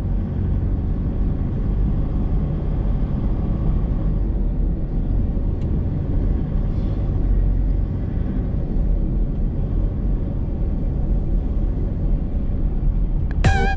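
Steady low rumble of a motor vehicle running, engine and road noise with no sudden events. Guitar music comes in at the very end.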